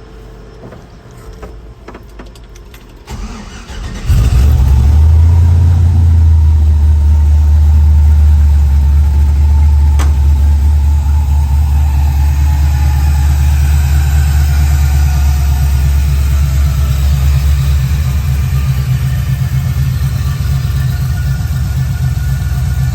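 1972 Chevrolet C10 pickup engine on a cold start: it cranks for about four seconds, catches with a sudden jump in level, then settles into a steady low idle that eases slightly as it runs. There is a single sharp click about ten seconds in.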